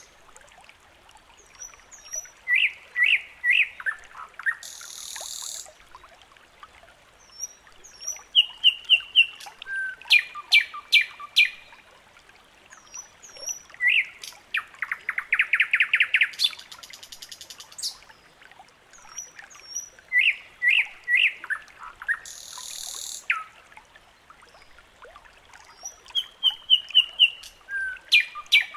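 Songbirds chirping and trilling in short, repeated phrases, the same phrases coming round again about every eighteen seconds as in a looped birdsong recording.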